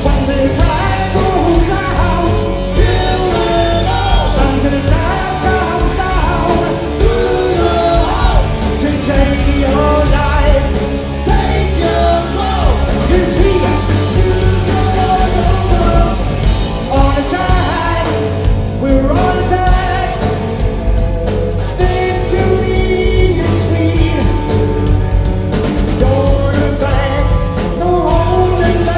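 Live rock band playing loudly, with a lead singer over electric guitar and a heavy bass-and-drum backing.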